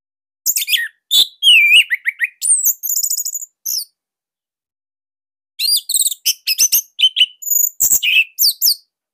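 Orange-headed thrush (anis merah) singing a loud, tightly packed song: two fast phrases of varied high whistles and chirps, the first with a rapid trill, separated by a pause of about two seconds.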